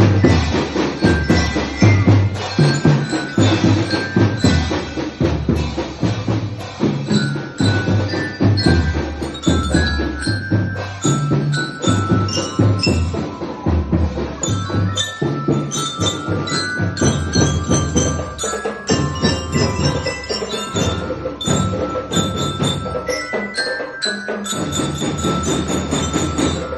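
Drum kit being played along to a backing song: rhythmic drum and cymbal strokes over a melody and a stepping bass line.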